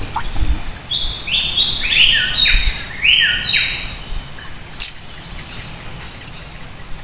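A bird calling: a quick series of about eight short whistled notes, each rising then levelling off, starting about a second in and lasting some three seconds. A steady high-pitched whine runs underneath, with a single sharp click near the end.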